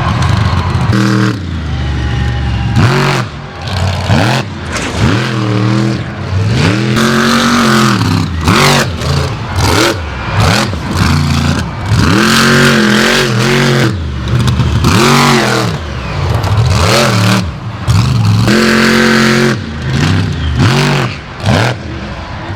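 Monster truck engine revving hard over and over, its pitch climbing and falling with each burst of throttle.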